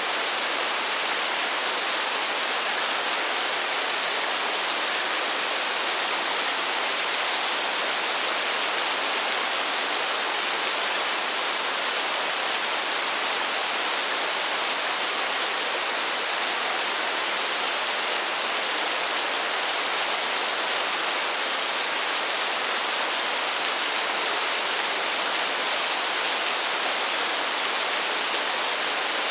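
Steady, even hiss of heavy rain, with no single drops or other events standing out.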